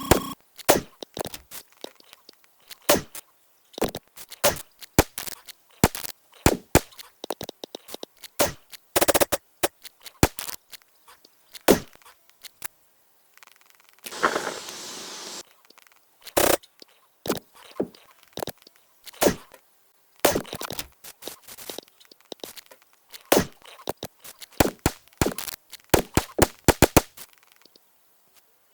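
Irregular sharp cracks and clicks, some loud, coming every fraction of a second to a second or so, with a brief hiss about halfway through.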